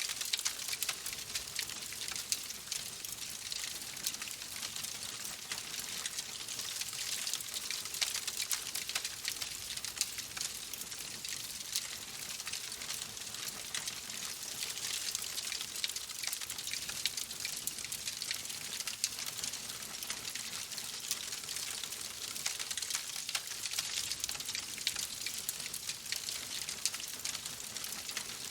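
Wood fire crackling in a fireplace: a steady hiss peppered with many small, sharp pops.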